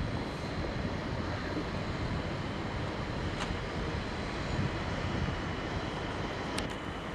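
Passenger train coaches rolling slowly past as the train eases toward a stop, a steady low rumble. Two short sharp clicks sound about three and a half and six and a half seconds in, the second ringing briefly.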